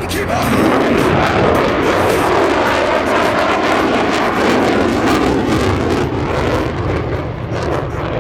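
F-35A Lightning II fighter jet in flight, its single afterburning turbofan engine producing loud, steady jet noise that eases slightly near the end.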